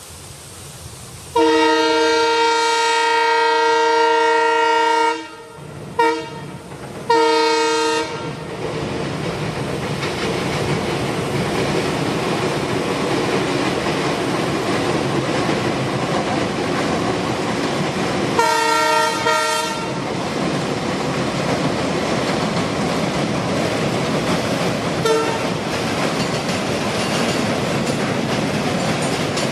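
Train horn sounding a long multi-tone blast, then two short blasts, followed by the steady rushing and rattling of the train running past on the rails. The horn sounds again for about a second and a half about two-thirds of the way through, and briefly once more near the end.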